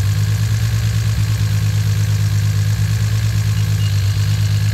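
Turbocharged car engine idling steadily at operating temperature: a low, even drone.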